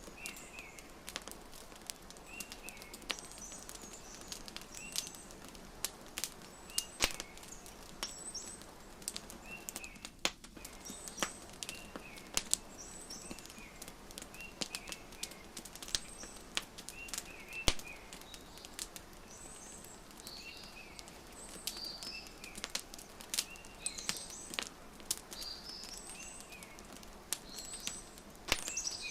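Wood fire crackling, with irregular sharp pops over a steady hiss, and small birds chirping in short repeated calls every second or two.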